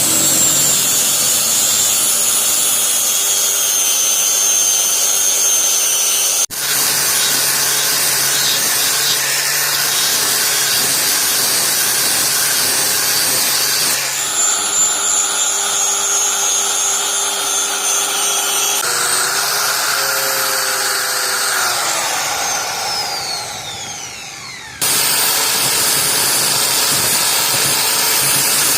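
Electric power tool running steadily with a high whine, broken by several abrupt changes from one run to the next. About two-thirds of the way through, the motor's whine falls in pitch and gets quieter as it winds down, then a loud steady run starts again suddenly.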